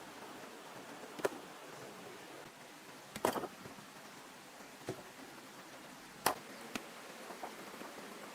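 A few irregular sharp knocks, like wood or bamboo being struck or chopped, over a steady hiss. The loudest come as a short cluster near the middle and a single crack about six seconds in.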